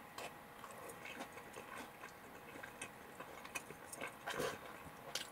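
A person chewing a mouthful of karaage (Japanese fried chicken) with rice, faintly, with scattered small mouth clicks and a slightly louder bite about four seconds in.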